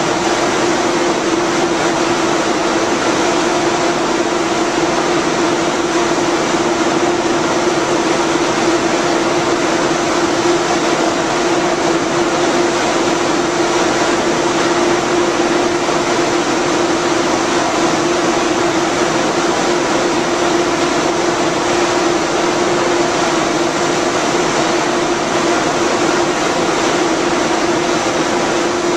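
Stationary ICE high-speed train's power car running its cooling fans and electrical equipment: a steady, loud whirring hum with one constant mid-pitched tone.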